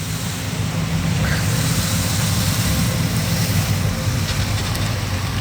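A vehicle engine idling steadily with a low hum, over outdoor background noise.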